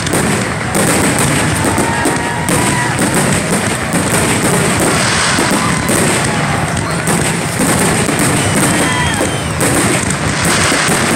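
Aerial fireworks bursting, a dense continuous mix of booms and crackle without pause, with music playing at the same time.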